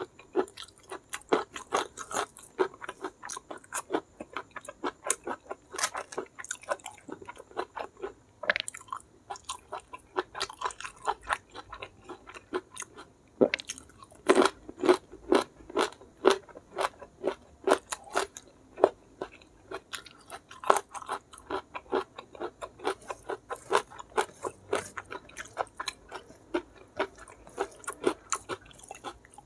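Close-miked chewing: wet lip smacks and crunching of a man eating rice with blood cockle and petai sambal by hand, a rapid irregular run of sharp clicks, several a second.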